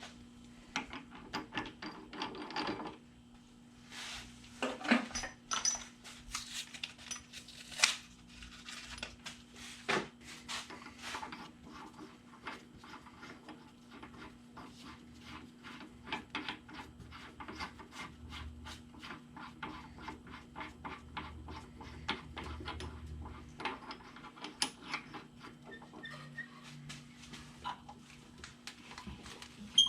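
Scattered light clicks, knocks and clinks of tools and metal parts being handled during setup at a drill press, over a faint steady hum.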